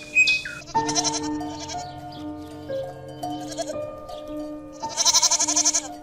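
A farm animal bleating: a shorter call about a second in and a louder, longer call near the end. Soft background music with steady held tones plays underneath.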